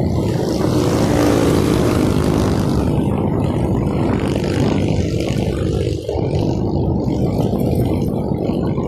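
Steady wind rumble on the microphone mixed with road and traffic noise, heard while riding a bicycle, with a motor vehicle's engine heard briefly about a second in.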